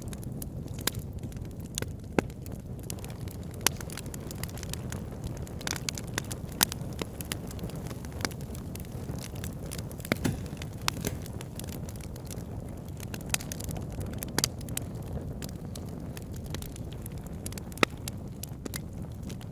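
Wood fire burning in a fireplace: a steady low rumble of flames with irregular sharp crackles and a few louder pops.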